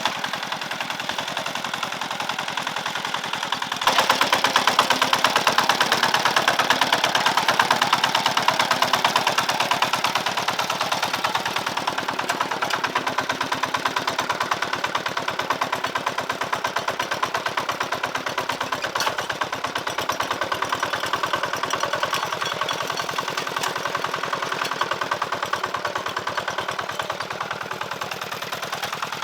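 A small engine running with a rapid, even beat; it gets louder abruptly about four seconds in.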